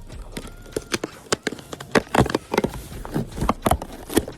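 A package being opened and handled: irregular crinkling and sharp clicks, thickest in the second half.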